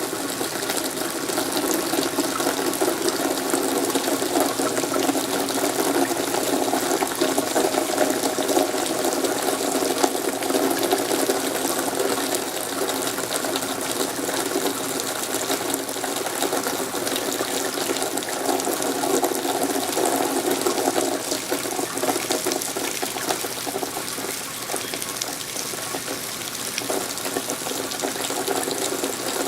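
Steady rain falling, a dense run of small drop ticks over a constant wash of running water.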